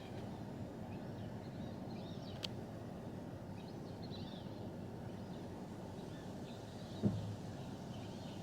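Steady low rumble of a car idling or creeping along, with faint bird chirps from outside. A sharp click about two and a half seconds in and a short low thump near the end.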